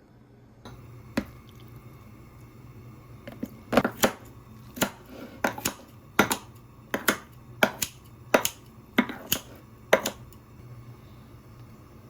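About a dozen sharp taps or clicks at uneven spacing, starting about three seconds in and stopping about ten seconds in, over a faint steady low hum.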